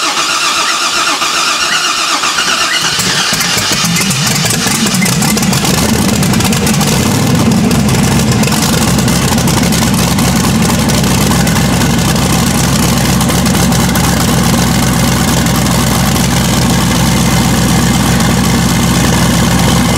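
Twin-turbo 6.0-litre LS V8 being cranked over, catching about three seconds in, then idling steadily with its valve covers off and rocker arms exposed, its push rods just reseated in the lifters.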